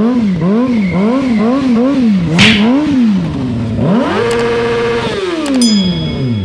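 Stunt motorcycle engine with the throttle pumped, the revs rising and falling two to three times a second, with a short hissing burst about halfway. The revs then climb and hold high for about a second before falling away near the end.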